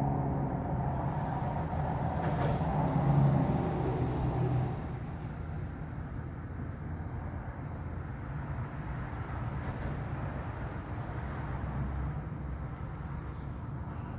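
Crickets chirping steadily, with a low rumble that swells to its loudest about three seconds in and fades out by about five seconds.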